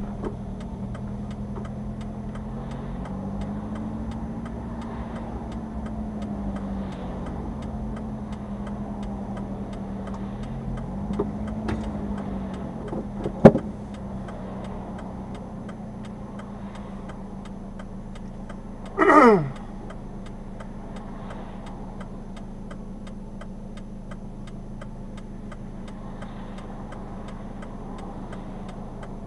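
Subaru Sambar's engine running while driving, its pitch rising and falling with the revs for the first dozen seconds and then holding steady. A sharp click sounds about 13 seconds in, and a short, loud, falling whine about 19 seconds in.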